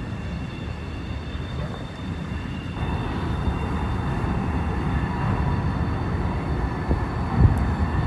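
Freight train cars rolling past with a steady rumble of steel wheels on rail and a faint high ringing whine from the wheels, growing a little louder about three seconds in, with a few low thumps near the end.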